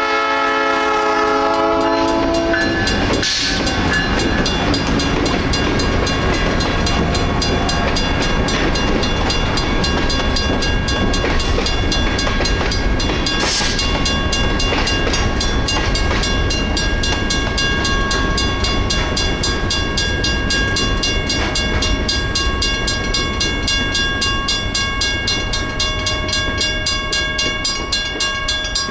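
A train horn sounds and cuts off about two seconds in. Then a train rolls through the crossing with a steady rumble, while a Federal Signal mechanical crossing bell rings continuously in even, repeated strokes.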